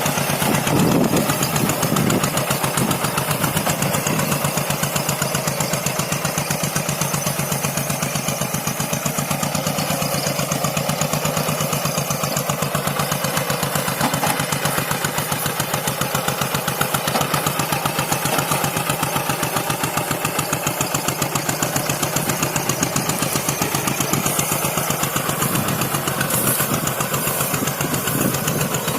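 Paddy-field tractor's engine running steadily with a fast, even chugging while ploughing a dry rice field.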